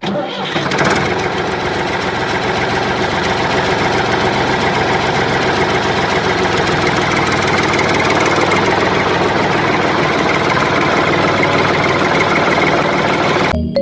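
Motor running steadily with a dense, even mechanical rattle. It starts abruptly and cuts off suddenly near the end.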